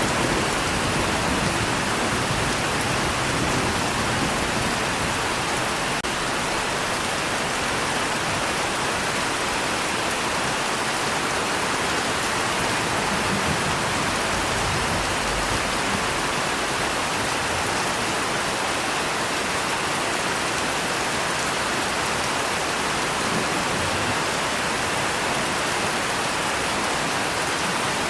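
Steady rain falling, an even hiss at a constant level with no thunder rumbling.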